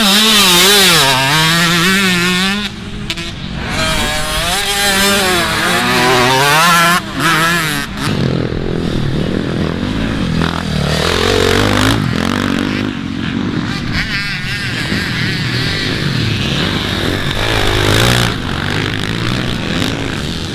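Motocross dirt bike engines revving hard, the pitch repeatedly climbing and dropping with throttle and gear changes. After about eight seconds the engine sound turns lower and steadier.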